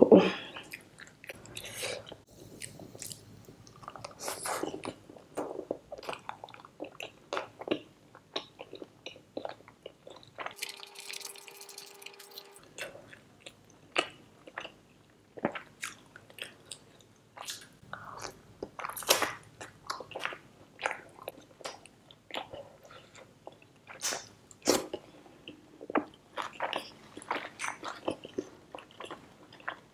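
Close-miked eating: wet chewing, lip smacks and mouth clicks from big bites of soft flatbread dipped in butter chicken gravy. A short steady tone with hiss sounds about eleven seconds in.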